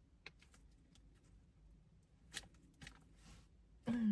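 Quiet handling of a potato chip bag: a few faint crinkles and clicks, and a breathy sniff about three seconds in. A short hummed voice sound comes right at the end.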